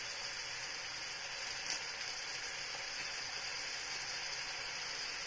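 Shredded leftover roast chicken sizzling steadily in its own rendered fat in a frying pan over a gas flame.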